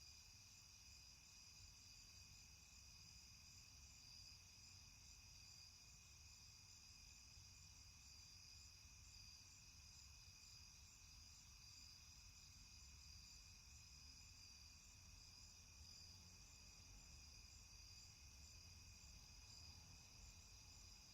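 Very faint, steady high-pitched insect chirring, with a low hum beneath.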